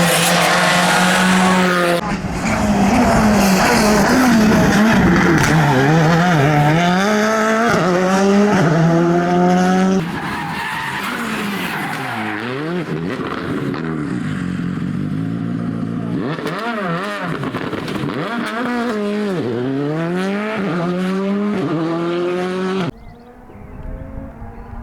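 Rally car driven hard: its engine revs up and falls back again and again through gear changes, with tyre squeal. The sound changes abruptly about two, ten and twenty-three seconds in, as separate passes are cut together, and is quieter after the last cut.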